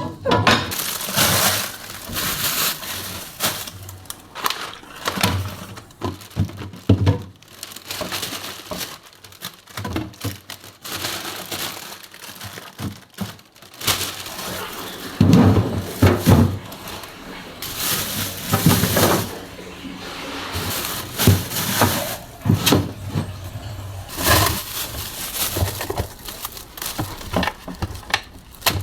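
Irregular knocks, clunks and rustling as food containers and plastic bags are moved in and out of a refrigerator during cleaning.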